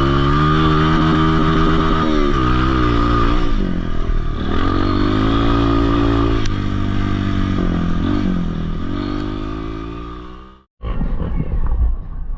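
Dirt bike engine accelerating, its pitch climbing and then dropping back several times as it works through the gears. The engine fades about ten seconds in, and after a sudden cut there is a rough, rumbling background noise.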